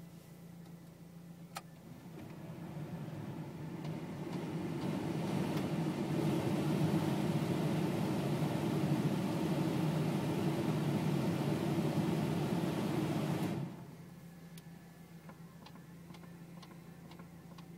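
The car's heater/AC blower fan starts up, builds over a couple of seconds into a steady rush of air, then cuts off suddenly. Under it, the Audi TT's engine idles with a steady low hum.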